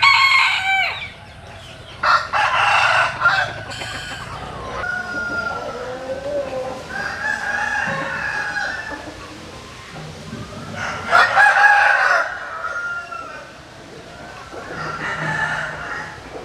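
Roosters crowing several times, loudest at the start, about two seconds in and about eleven seconds in, with quieter chicken calls and clucking between the crows.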